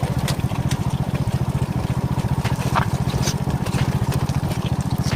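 Alpha moped engine running steadily under way, a fast even pulsing rumble, with scattered sharp knocks and rattles as the bike shakes over a rough, bumpy track.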